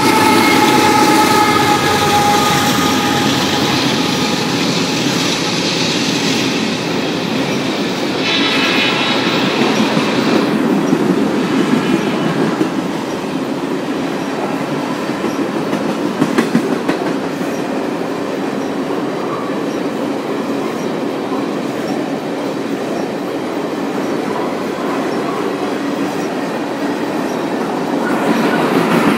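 Loaded crude-oil tank cars of a freight train rolling steadily past on the rails, with wheels clattering over the rail joints. In the first few seconds, the chord of the GE AC4400CW locomotives' horn fades away, dipping slightly in pitch as it draws off.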